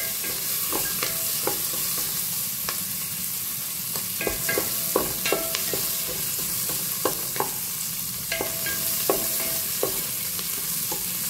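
Onion, garlic and ginger sautéing in a metal pot: a steady sizzle, with a wooden spoon stirring and tapping against the pot at irregular intervals, some taps ringing briefly.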